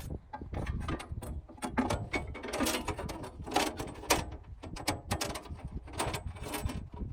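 Irregular metal clicks, clanks and short scrapes of parts being worked by hand on a Wood-Mizer LT20 band sawmill during a blade change, some strikes ringing briefly.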